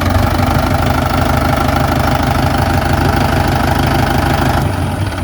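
Mahindra 575 DI tractor's diesel engine running steadily at a low, even beat; near the end the sound abruptly turns duller.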